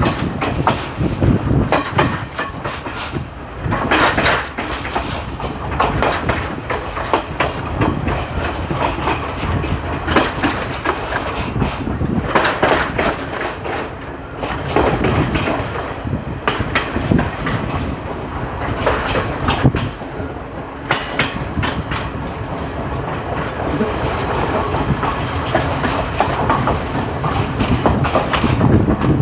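Passenger train running, heard from on board: a steady rumble with repeated clacks of the wheels passing over rail joints.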